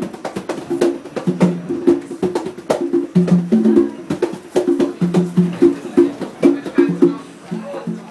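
Congas played by hand in a fast, steady rhythm, mixing sharp slaps with ringing open tones on drums tuned to a low and a higher pitch.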